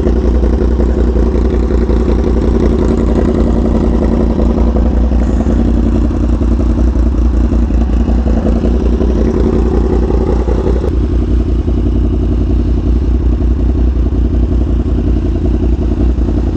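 Yamaha R1M's crossplane inline-four running at a steady cruise while riding, heard from the rider's position. About eleven seconds in the note drops abruptly.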